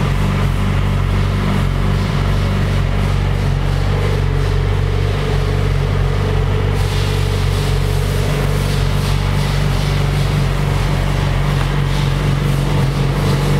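Yamaha YZF-R6 sport bike's inline-four engine idling steadily.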